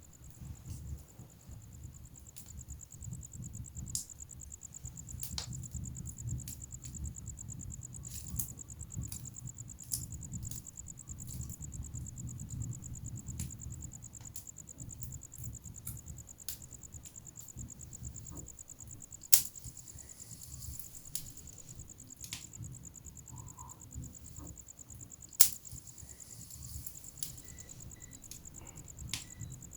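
Wood fire in a fireplace crackling, with a low rush of flame and scattered sharp pops, two of them much louder. A steady high, rapidly pulsing trill sounds along with it.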